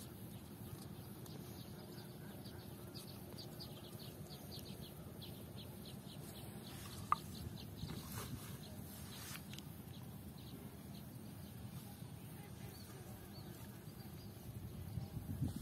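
Quiet outdoor ambience with faint distant bird calls: a quick run of short chirps in the first half, and a single sharp click about seven seconds in.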